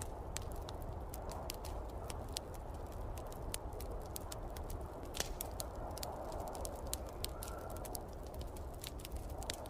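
Wood fire in a fireplace crackling, with many irregular sharp pops and snaps over a steady rushing, rumbling background of wind.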